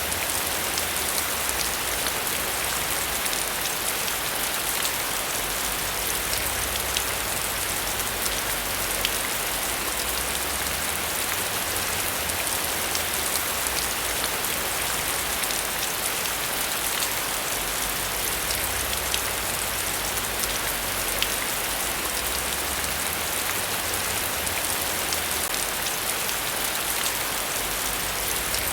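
Heavy rain falling steadily, a dense even hiss with many fine drop ticks, over a low fluctuating rumble.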